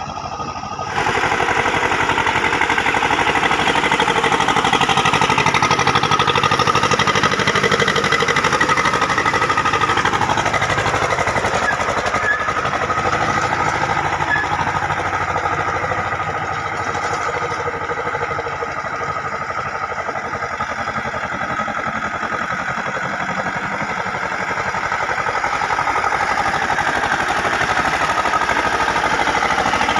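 Sonalika DI 730 tractor's diesel engine running steadily while working the tractor through a flooded paddy field, getting louder about a second in.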